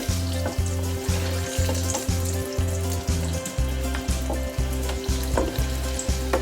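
Breaded chicken drumsticks sizzling and crackling in hot oil in a deep fat fryer, under background music with a steady low beat about twice a second.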